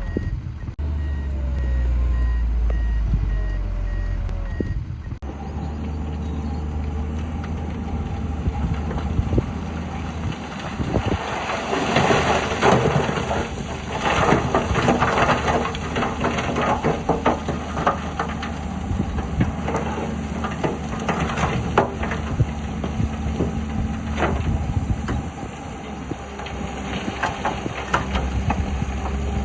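A dump truck's reversing beeper beeping over heavy diesel engines for about the first five seconds. After that, diesel engines of bulldozer and trucks keep running, with a clatter of knocks, loudest through the middle, as earth and stone are moved.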